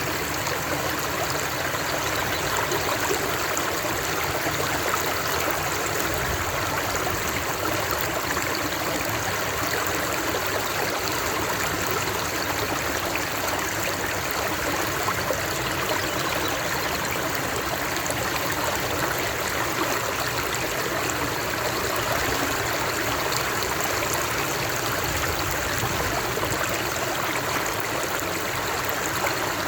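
Running water flowing steadily, an even, unbroken rush with no changes.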